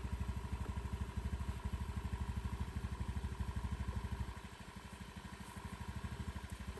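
Motorcycle engine running with a steady rapid low pulse; it eases off a little over four seconds in, then picks up again.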